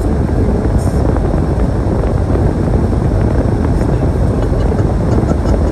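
Storm wind buffeting the microphone in a snowstorm: a loud, steady low rumble without breaks.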